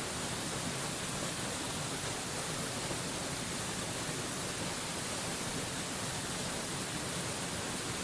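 Waterfall water falling in an even, unbroken rush, hissy and bright, with no change in level.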